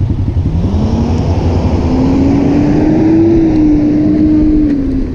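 Motorcycle engine revving up from a chugging idle: its pitch rises over the first few seconds, holds, then eases off near the end.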